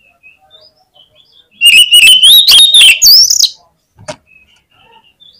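Oriental magpie-robin (kacer) singing: faint scattered chirps, then about a second and a half in a very loud, distorted two-second phrase with a whistle that rises in pitch, followed by a single sharp click.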